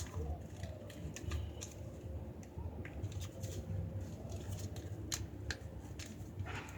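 A sheet of paper being folded and creased by hand, with scattered short crackles and rustles.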